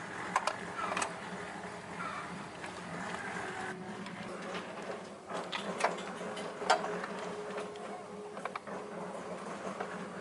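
Scattered sharp clicks and light knocks at irregular times over a steady low hum.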